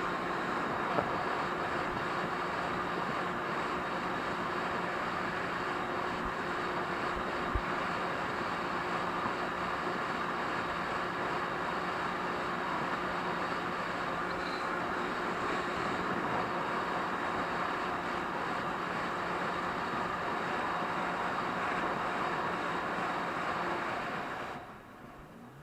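Jet ski engine running steadily under way, a droning tone over a rush of wind and water noise; the sound drops off sharply near the end.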